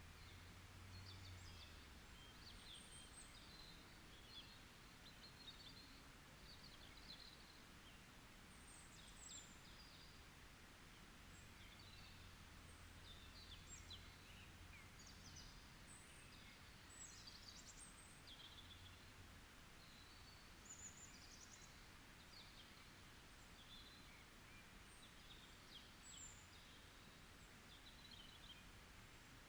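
Faint forest ambience: several songbirds chirping, with many short, high calls scattered throughout over a soft steady hiss.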